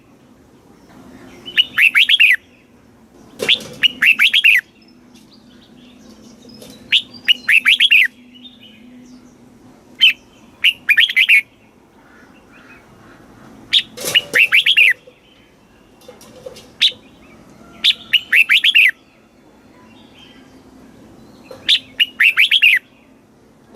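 Red-whiskered bulbul singing: about eight short phrases of quick, bright chirping notes, each under a second or so, repeated every few seconds.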